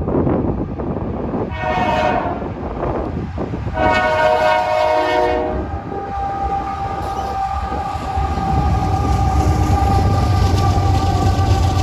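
Locomotive horn sounding twice, a short blast then a longer one, as a train approaches; a low engine rumble builds near the end as the train draws close.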